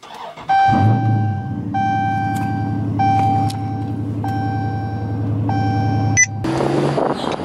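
Dodge SRT's V8 engine starting, heard from inside the cabin: it catches with a loud flare about half a second in, then settles into a steady idle. A dashboard warning chime repeats about once a second over it. Near the end it cuts to wind noise.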